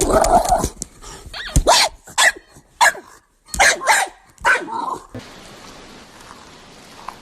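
A dog barking several times in quick succession, stopping about five seconds in.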